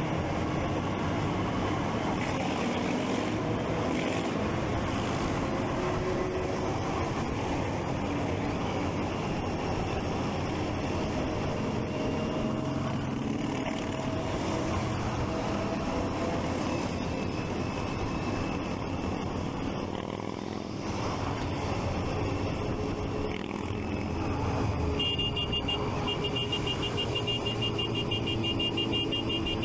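Triumph Street Triple 675's inline three-cylinder engine running on the move amid traffic noise, its pitch rising in places as it accelerates. Near the end a rapid high electronic beeping starts up.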